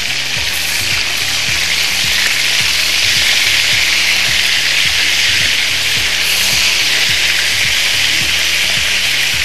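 Minced-meat kebabs shallow-frying in hot oil in a pan, a steady loud sizzle, with a spatula moving them about. Soft low background music runs underneath.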